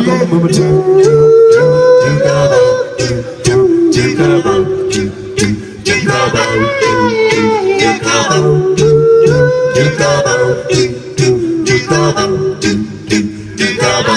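Live band music: a wavering, voice-like lead melody over a steady bass line and regular drum hits.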